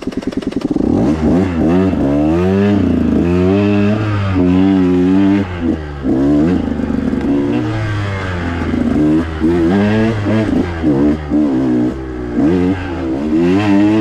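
2021 KTM 125 XC's 125 cc single-cylinder two-stroke engine firing up right at the start, then revving up and down again and again as the dirt bike is ridden along a trail.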